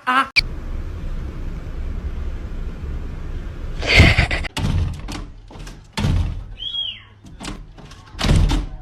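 A few sudden thuds and knocks over a low steady hum, with a short high squeak between them.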